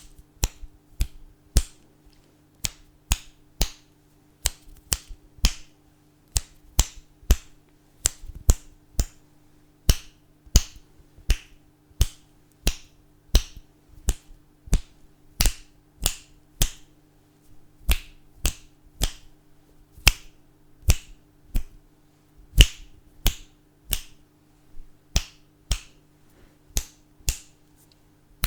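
Fingers snapping over and over, sharp single snaps a little under two a second at an uneven pace, over a faint steady low hum.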